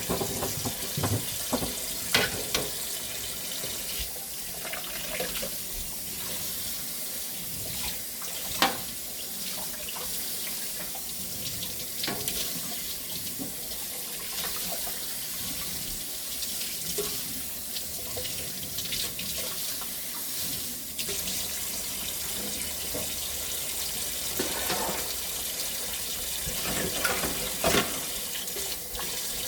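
Kitchen tap running steadily into a sink, with a few sharp knocks over it, loudest about nine seconds in.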